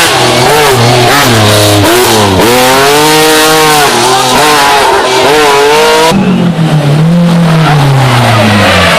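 Historic rally car engine at full throttle, its pitch climbing and dropping repeatedly through gear changes and lifts. About six seconds in the sound changes abruptly to an engine note that falls steadily for about three seconds.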